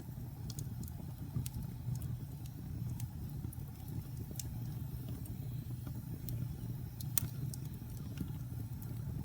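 Wood fire burning in a fireplace: a steady low rumble of flames with scattered sharp pops and crackles, a louder pop about seven seconds in.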